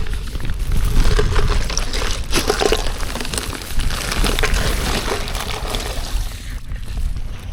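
Water sloshing and splashing close by, mixed with a low rumble and a few sharper knocks about two and a half seconds in; it starts suddenly just before.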